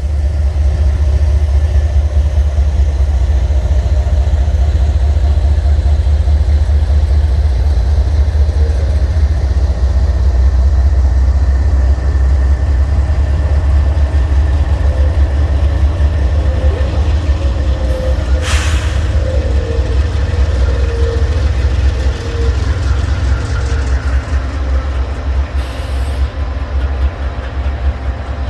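A train running past with a loud, steady, deep rumble, with a faint tone sliding slowly downward and one brief sharp noise about two-thirds of the way in.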